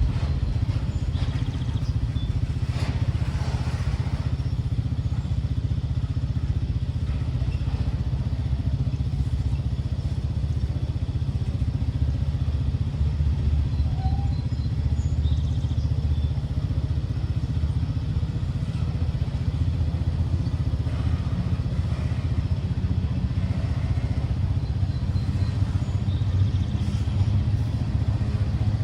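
A vehicle engine running with a steady low rumble that stays even throughout.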